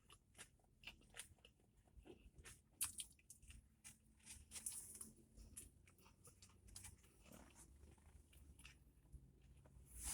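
Faint chewing of a chicken sandwich: soft, irregular mouth clicks and small crunches.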